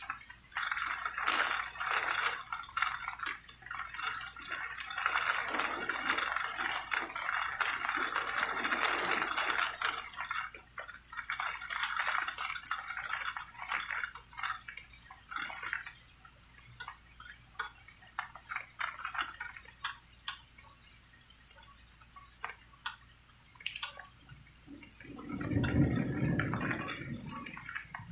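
Rain falling with many separate drips splashing, heavier in the first half and thinner later, with a brief low rumble near the end.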